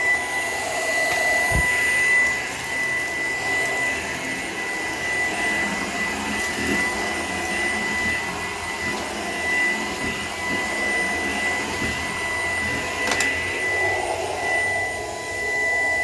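Shark PowerDetect vacuum cleaner running steadily with a high motor whine, with a low knock about a second and a half in and a sharp click about 13 seconds in.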